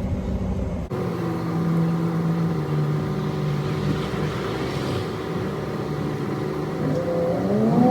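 Car engine running steadily while driving, then rising in pitch near the end as it accelerates.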